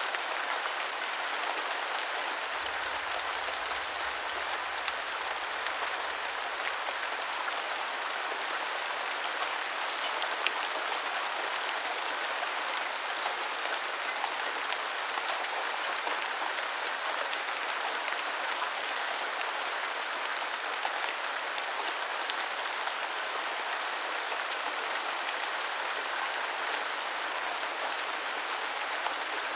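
Steady rain falling, an even hiss of many drops with scattered sharper drop ticks.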